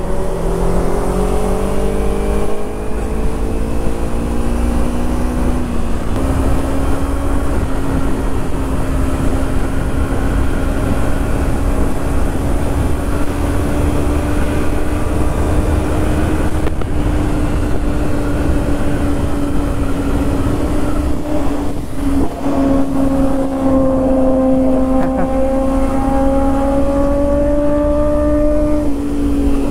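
Kawasaki Ninja 300's parallel-twin engine under way. It climbs in pitch for the first few seconds, steps at a gear change about six seconds in, then holds a steady cruise with a brief dip a little past twenty seconds. Low wind rumble on the microphone underneath.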